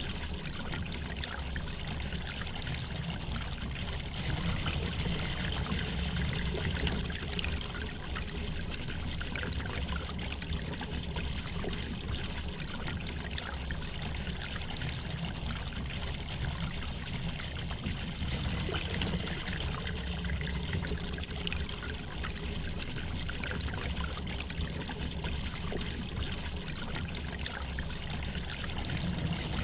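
River water flowing gently over stones: a steady trickling, babbling rush that swells slightly now and then.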